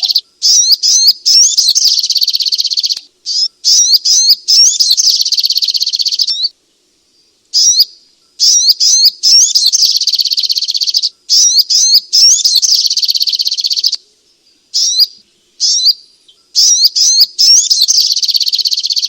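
A sogok ontong, a small sunbird, singing a loud, high-pitched twittering song of rapid rising and falling chirps, in phrases of one to three seconds with short breaks and a couple of longer pauses.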